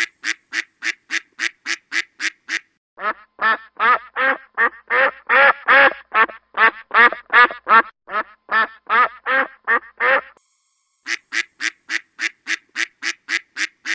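Playful sound effect tied to a glowing glass ball. It opens with a rapid run of short bright pulses, about four a second. From about three seconds in come repeated quack-like squeaks, about three a second. From about eleven seconds in the short pulses return.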